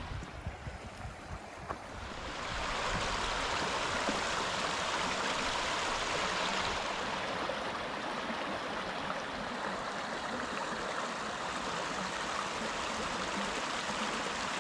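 Steady rushing noise that swells up about two seconds in and then holds even, over low wind rumble on the microphone.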